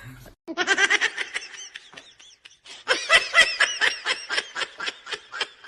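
High-pitched laughter in quick pulses, in two runs with a short break in between.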